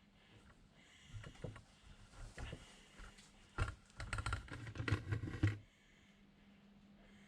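Wrench and metal parts clicking and knocking in quick, uneven runs while bolts on a van's rear brake anchor plate are being fitted and tightened. The loudest knocks come past the middle and stop about two seconds before the end, leaving a faint steady hum.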